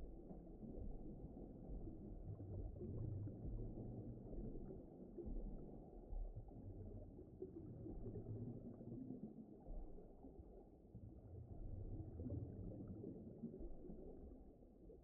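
Faint, muffled underwater ocean ambience: a low rumble with nothing bright above it, swelling and easing slowly.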